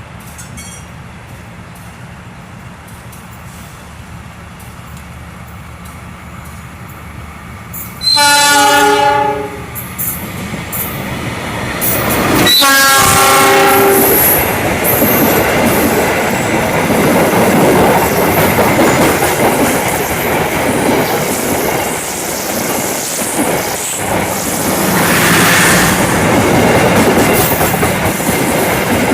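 A passing train's locomotive horn sounds two blasts of about a second and a half each, about four seconds apart. The train then runs through the station alongside at speed, with loud rumbling and wheel clatter on the rails. Before the horn, only a low steady hum.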